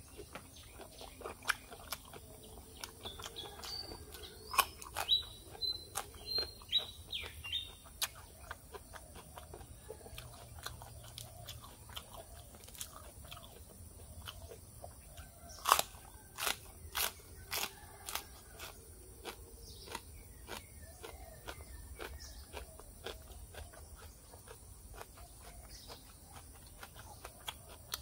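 Close-up crunching and chewing of pork-ear salad, with repeated crisp bites of the gristly ear and wet mouth sounds, heard close to a lapel microphone. A bird chirps several times in the first several seconds.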